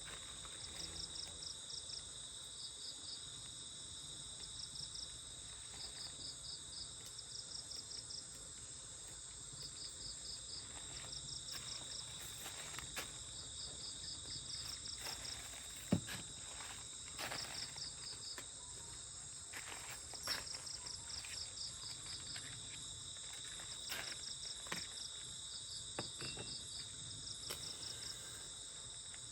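Forest insects in chorus: a steady high-pitched drone, with short trains of rapid chirps repeating every second or two. A few faint clicks and one sharp knock about halfway through.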